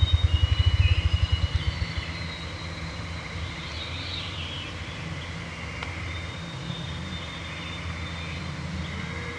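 Ruffed grouse drumming: low thumps that speed up into a rapid flutter and die away about two seconds in. Songbirds whistle high, clear notes over a steady low hum.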